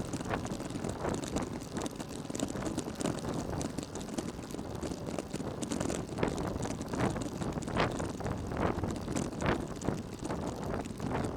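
Steady wind and road noise from a moving vehicle. Irregular short buffets hit the microphone, more often in the second half.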